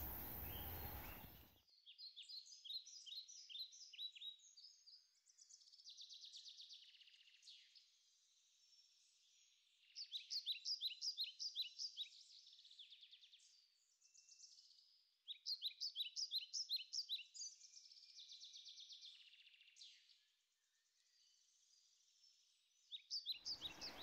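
Songbirds singing in woodland: one bird repeats a fast phrase of sharp, clear notes every few seconds, with softer trills and chatter between the phrases.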